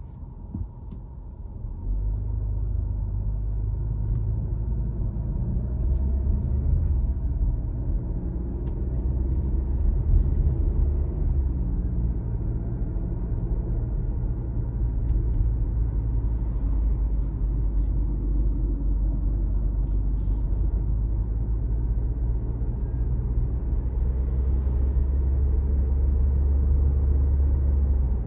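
A car driving on a road, with a steady low rumble of engine and tyres that grows louder about two seconds in.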